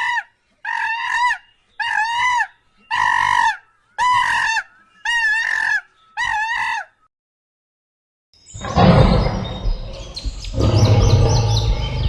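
Seven short animal calls, about one a second, each rising and then falling in pitch. After a short pause, a loud, rough, rumbling noise begins about eight and a half seconds in.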